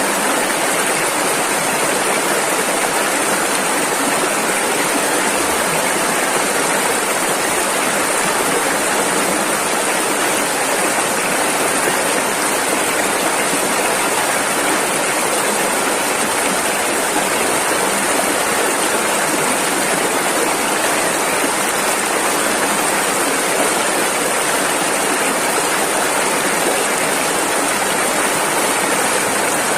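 Rushing river water: a fast, turbulent flow making a steady, even roar with plenty of hiss.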